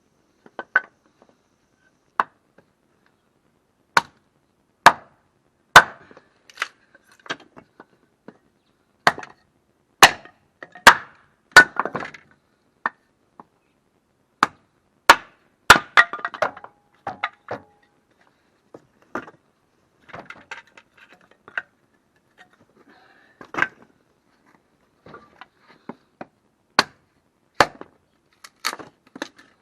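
Firewood being chopped and split by hand: sharp wooden strikes at irregular intervals, some followed by a short run of smaller cracks as the wood gives.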